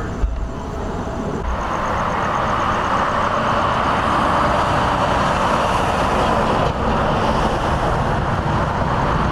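A motor vehicle's engine running, with a rushing noise that swells about a second and a half in and then holds steady.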